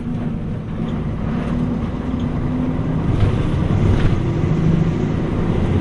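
Mitsubishi Fuso U-MP218M Aerostar K city bus's V8 diesel engine running under way, heard from inside the cabin with road noise. The engine note shifts and gets louder about three seconds in.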